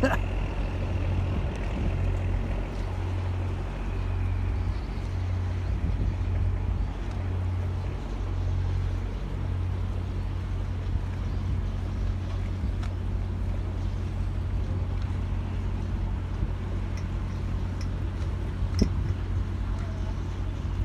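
Tugboat's diesel engines running at low throttle, a steady low drone that throbs about once a second for the first ten seconds, then evens out.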